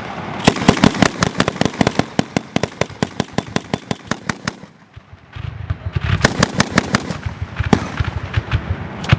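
Rapid strings of sharp bangs from MK 19 40 mm automatic grenade launcher fire, several a second. They break off briefly near the middle and come back over a low rumble.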